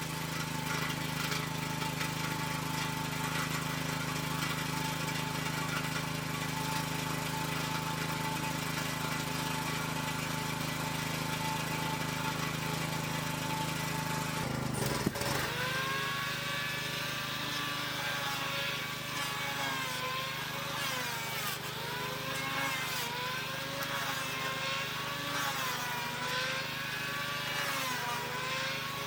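An engine running steadily. About halfway through, the sound changes to a motor whose speed rises and falls unevenly, as if under changing load.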